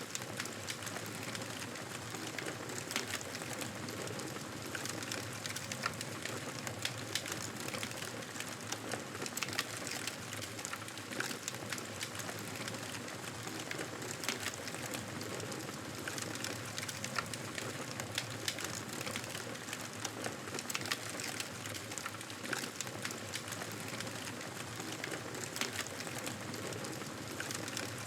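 Wood fire crackling steadily in a fireplace, with frequent irregular pops over a soft hiss.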